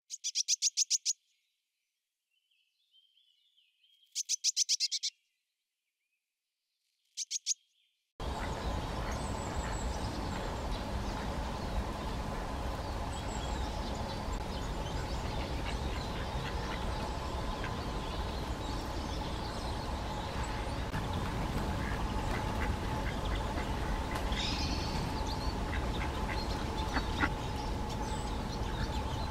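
European greenfinch song: three short trills of rapidly repeated high notes, a few seconds apart. From about eight seconds in, a steady background hiss and hum take over, with only faint bird chirps.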